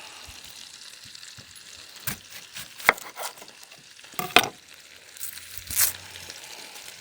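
Bacon pieces sizzling in a pan, a steady faint hiss, with a few sharp knocks and clicks of kitchen utensils from about two seconds in.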